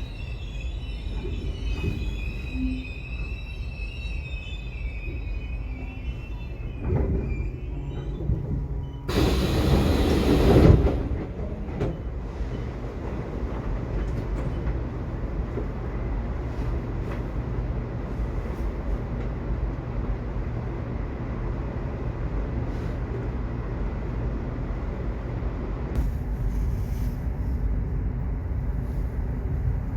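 Subway train running on the rails: a steady low rumble, with high wheel squeal in the first few seconds and a loud rushing burst about nine to eleven seconds in.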